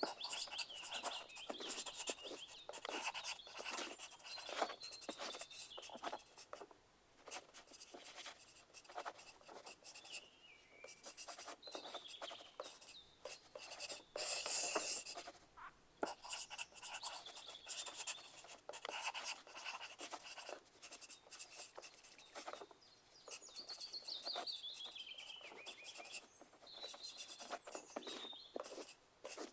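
Pencil writing on paper: quick scratchy strokes in irregular bursts with short pauses, and now and then a thin high squeak as the lead drags across the sheet.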